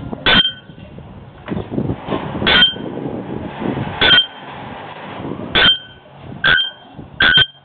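Bare-throated bellbird (araponga) giving its metallic, clanging 'bock' call six times. The calls come about a second and a half apart at first and faster near the end.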